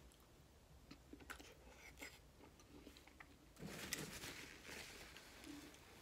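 Soft chewing and small wet mouth clicks from eating a boiled egg. The sounds are faint at first and grow louder and noisier a little past halfway.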